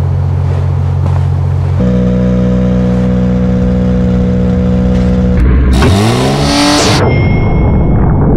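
Rally car engine running at a steady low note, stepping up about two seconds in to a higher steady note, then revving up hard with rising pitch about five and a half seconds in. The revving cuts off about a second before the end, leaving a faint high whine.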